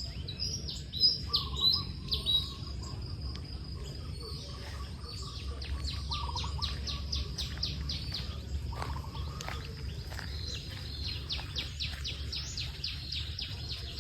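Several birds chirping and calling, with fast trills of rapidly repeated high notes and a few lower calls. A steady low rumble runs underneath.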